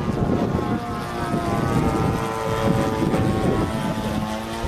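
Radio-controlled model airplane's motor and propeller whining, its pitch sliding down in the last second, over heavy wind buffeting on the microphone.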